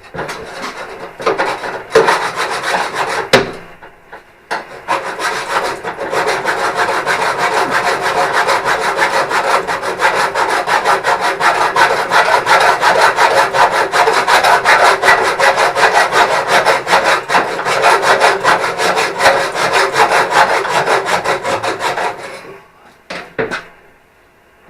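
A saw cutting through metal, with a fast, steady rasp. It starts in a few short runs, stops briefly about four seconds in, then cuts without a break until it stops shortly before the end.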